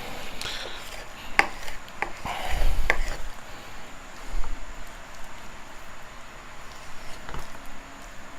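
Knife cutting raw chicken breast on a cutting board, with a few scattered taps and knocks of the blade and meat against the board.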